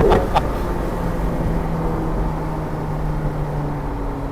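McLaren 720S's twin-turbo V8 running at steady revs while the car is under way, heard from inside the cabin. Its pitch drops a step about three and a half seconds in.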